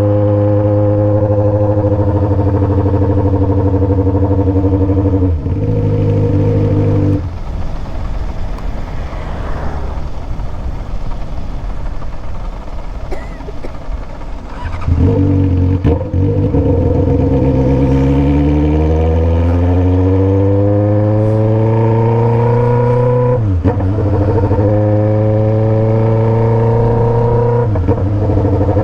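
Motorcycle engine with a remapped 3-inch aftermarket exhaust, heard from the moving bike. It runs steadily, then its note drops away for several seconds. It then accelerates with a rising pitch, with two gear changes that make the note dip sharply, the first about two-thirds of the way through and the second near the end.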